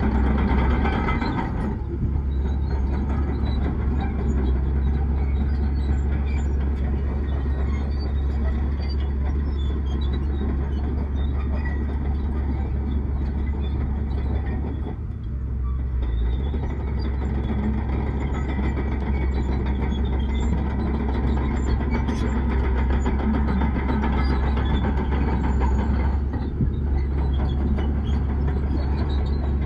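Heavy diesel earthmoving machinery running steadily with a deep engine drone, briefly easing off about two seconds in, around the middle and near the end.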